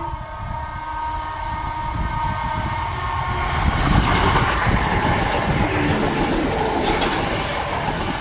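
Class 317 electric multiple unit passing at speed close by: a rush of wheels on rail and air that builds, is loudest about four seconds in, and eases as the carriages go by.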